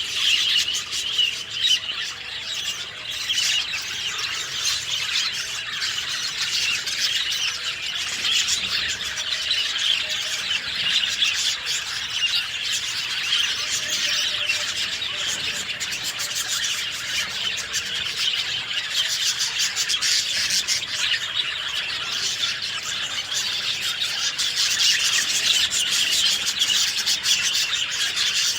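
Many birds chirping and singing at once in a dense, continuous chorus, with some harsher squawking calls mixed in.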